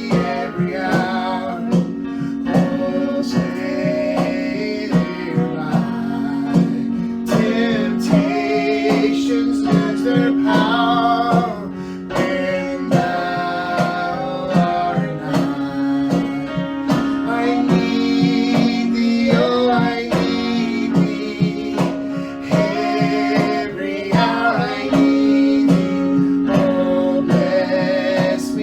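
Worship song: voices singing a melody over acoustic guitar.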